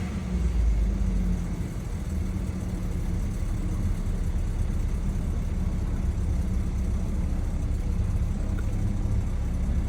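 2013 BMW X3 engine running steadily at idle, now fed by a newly fitted fuel pump after a crank-no-start fault. There is a slight swell in the first second.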